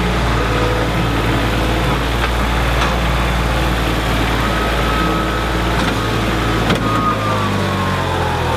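Heavy vehicle engine running steadily, with a few sharp knocks; its pitch falls toward the end.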